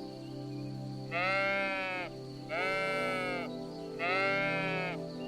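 Sheep bleating three times, each call about a second long, over steady background music.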